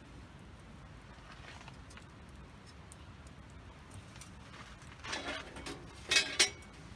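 Faint ticking and crackling of a wood campfire, then a few short, louder pitched sounds between about five and six and a half seconds in; the last two come close together.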